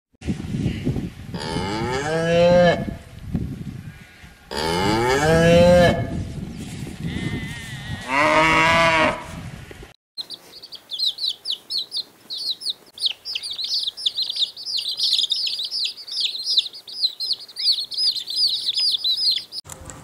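A cow mooing three times, in long, drawn-out calls. From about halfway, small birds chirp rapidly and without pause in high, quick notes.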